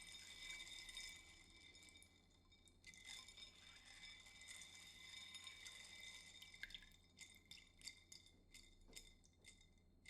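Faint dripping and trickling water with a glassy ring. In the second half a run of quick small clicks and taps.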